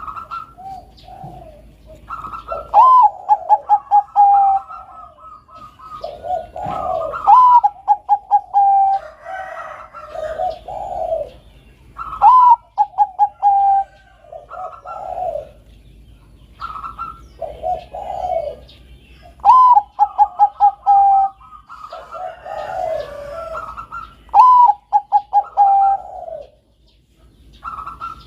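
Zebra dove (Bangkok perkutut song strain) cooing in repeated phrases a few seconds apart. Each phrase has a high opening note, a quick run of short staccato notes falling slightly in pitch, and a lower closing coo.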